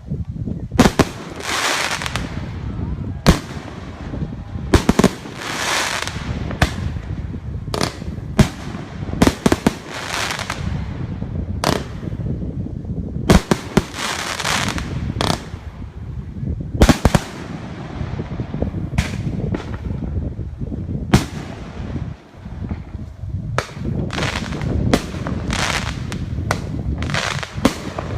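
Fireworks going off: sharp bangs all through, some in quick clusters, between longer crackling bursts.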